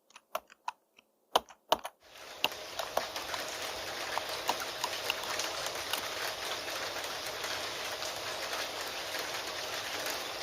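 Typing on a computer keyboard, separate key clicks for about two seconds, then an abrupt switch to steady rain, an even hiss with scattered drop ticks.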